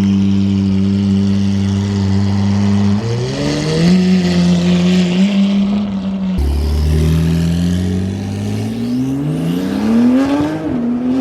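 A sports car engine is held at raised revs, steps up about three seconds in, then after a sudden cut climbs slowly in revs and drops back just before the end.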